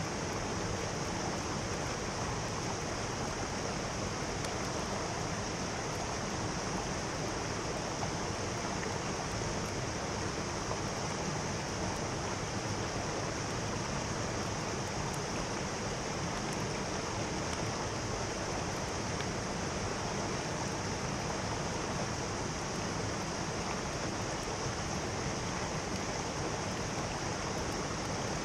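Mountain stream rushing steadily, an even unbroken water noise.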